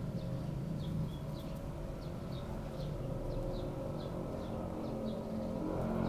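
A small bird repeating short, high chirps evenly, about two to three a second, over a steady low engine hum.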